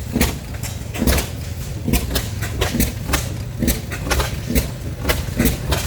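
Several old stationary oil field engines running together: sharp, uneven firing beats, several a second, over a steady low rumble.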